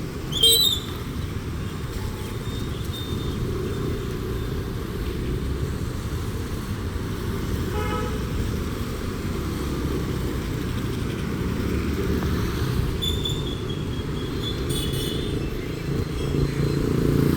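Steady road traffic noise with passing vehicles, and short vehicle horn toots, the clearest near the end. A brief loud sound sliding down in pitch comes about half a second in.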